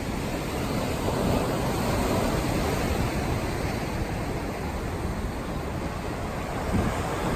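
Steady rushing noise of wind buffeting the microphone while riding a bicycle, heaviest in the low end.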